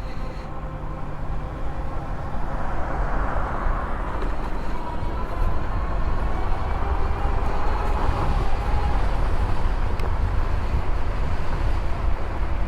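Riding an electric bike: wind rumbling on the microphone, growing louder over the first couple of seconds, over a faint whine from the electric motor that drifts slightly in pitch.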